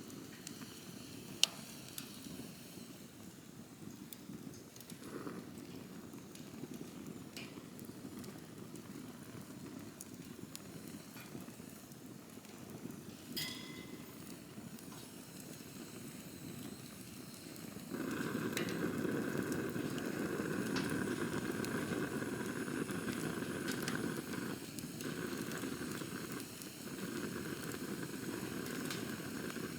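Wood campfire burning: a steady low rush of flame with scattered crackles and pops, the sharpest about a second in. A little past halfway the fire gets louder, with a steadier hiss that drops out briefly twice near the end.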